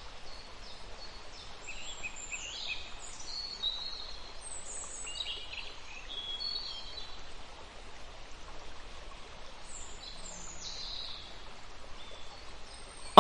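Small birds chirping in short, high, mostly falling notes, in scattered clusters over a steady outdoor hiss.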